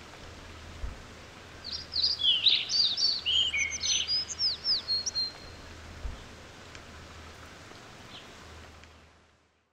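Wild songbird singing a quick run of falling chirps from about two seconds in, lasting a few seconds, over a steady outdoor hiss of woodland ambience. The ambience fades out near the end.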